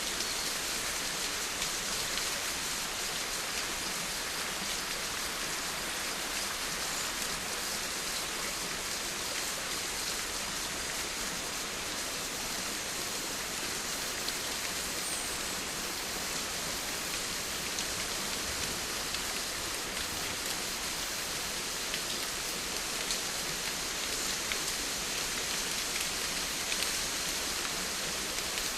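Steady rain falling, an even hiss of drops with faint scattered ticks of individual raindrops.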